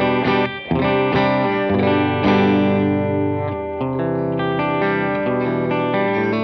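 Electric guitar, a Gibson Les Paul 50s Tribute with P90 pickups, played through a worship-style pedalboard with light overdrive and effects. A few quick strums in the first second give way to chords held and left ringing, changing twice.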